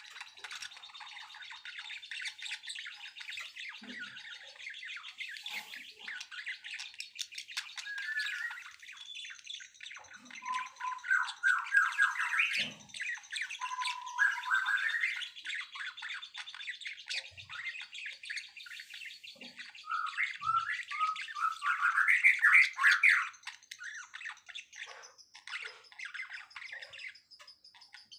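Several songbirds chirping and chattering without pause, with louder, fast song phrases about ten seconds in and again around twenty seconds in.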